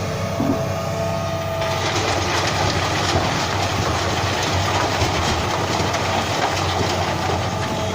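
A heavy truck running, its engine giving a steady low drone. From about a second and a half in, a dense clattering rattle joins it and goes on to the end, like the truck's body and load shaking over a rough road.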